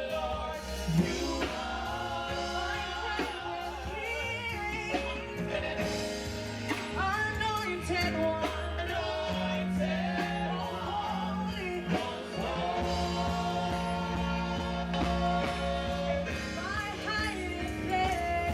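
Praise team singing gospel music with instrumental accompaniment: sustained sung lines with vibrato over steady bass and drum beats.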